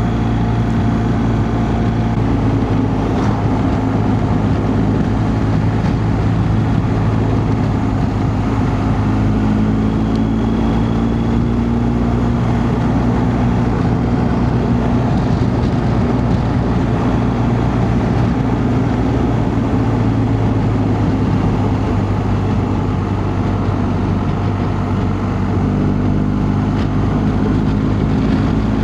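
BMW GS boxer-twin motorcycle engine running at steady cruising revs, with a constant rush of wind and road noise. The engine note eases slightly in pitch a couple of times.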